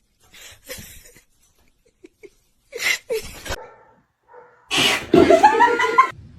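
A pet animal's vocal noises: a few short snorting or sneezing bursts, then a longer, louder call that glides in pitch near the end.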